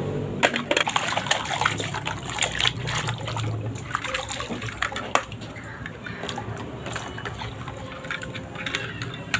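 Water running and splashing, with irregular clicks and knocks throughout.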